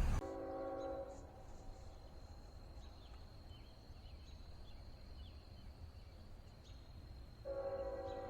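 Distant locomotive horn of an approaching Norfolk Southern freight train: a short blast about a second long, then a second blast beginning near the end. In between, a faint steady insect buzz and a few bird chirps.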